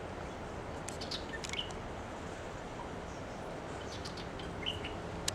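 Birds chirping outdoors: a few short, high chirps scattered about a second in and again near the end, over steady background noise.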